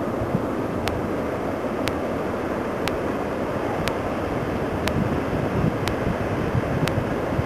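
Wind buffeting the microphone over the steady rush of heavy ocean surf. A faint tick recurs about once a second.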